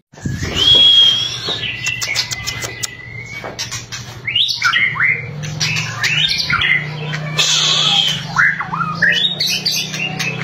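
White-rumped shama (murai batu) singing a varied song: a long clear whistle, a burst of sharp crackling clicks (the 'kretekan'), then many quick sliding and looping notes.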